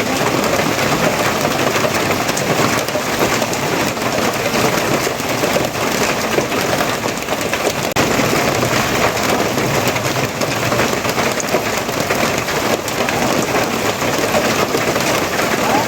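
Steady, heavy rain falling, an even dense hiss of drops with no breaks.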